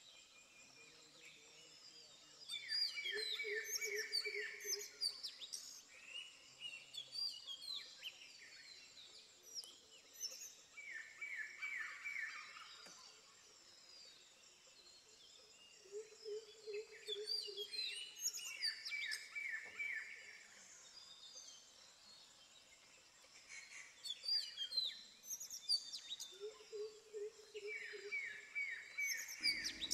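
Birds chirping and calling, with a short rapid trill of four or five notes repeated every several seconds and lower pulsed calls in between. A faint steady high tone runs underneath.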